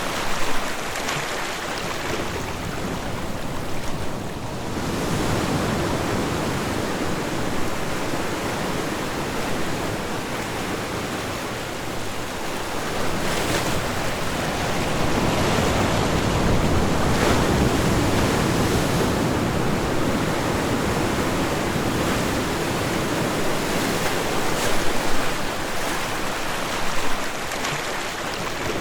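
Ocean waves washing onto a beach, a continuous surf noise that swells and eases slowly, with a few brief louder splashes.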